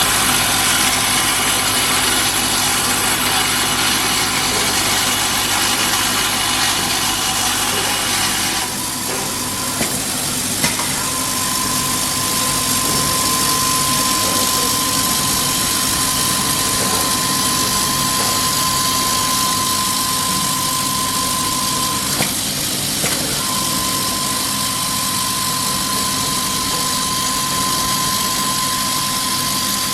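Horizontal deep-hole automatic drilling machine and its vibratory bowl feeder running: a steady mechanical hum and rush. A high, steady whine comes in about a third of the way through, drops out briefly about two-thirds in, then returns. A few sharp clicks sound along the way.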